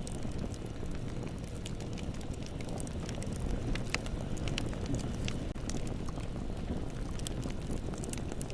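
Bonfire burning: a steady low rumble with frequent sharp, irregular crackles and pops.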